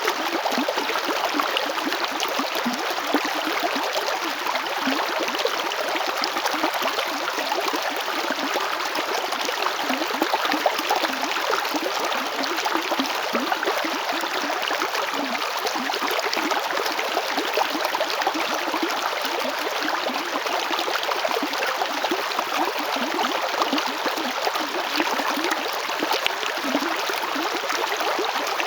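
Small river flowing over stones, a steady rushing and burbling of water.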